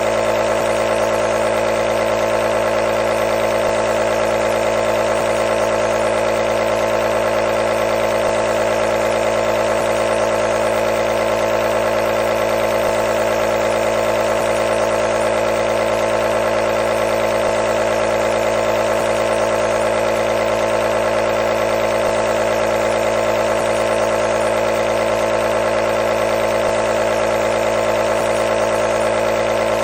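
Nebulizer running, a steady unchanging motor hum with a strong mid-pitched tone.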